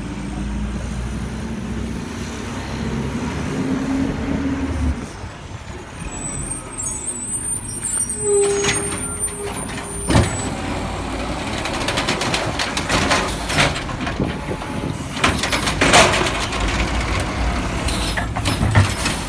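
Garbage truck at work: its diesel engine running, with a short steady tone about eight seconds in and a series of bangs and clanks through the second half.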